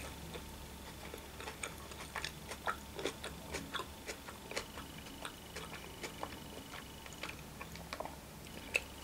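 A person chewing a mouthful of sushi roll with the mouth closed: faint, irregular soft clicks and smacks.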